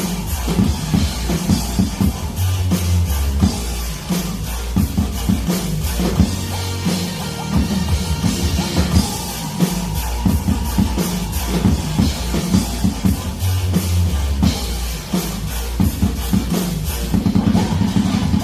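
Drum kit played live over a rock backing track: steady kick and snare hits with cymbals, over bass and the rest of the band.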